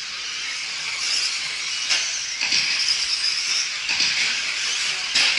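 Radio-controlled 2WD stadium trucks racing, their motors making a high whine that wavers up and down as they accelerate and brake. Sharp knocks about two seconds in and again near the end, from the trucks hitting or landing.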